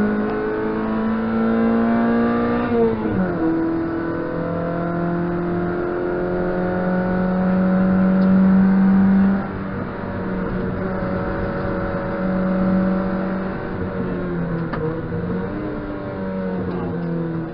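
Competition car's engine heard from inside the stripped cabin, driven hard: revs climb, drop sharply at a gear change about three seconds in, then hold high until the driver lifts off about nine seconds in. After that the revs rise and fall through the corners.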